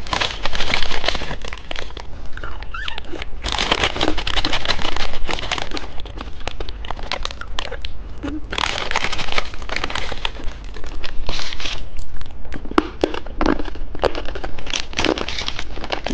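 Red foot-shaped candy being unwrapped and eaten close to the microphone: irregular bursts of plastic-wrapper crinkling and crunching, over and over.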